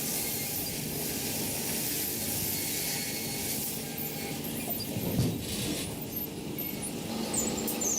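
Woodworking machinery running steadily: a constant hum with several held tones under a broad hiss, and a brief louder knock about five seconds in.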